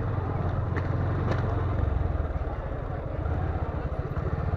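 Motorcycle engine running, a steady, fast-pulsing low note with road noise above it.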